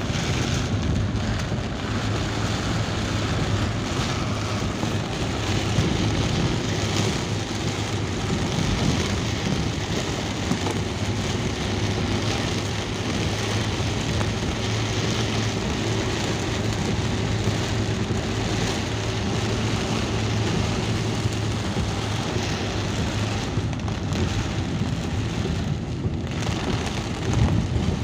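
Steady rain falling, with a vehicle's engine and road noise running underneath as a steady low hum.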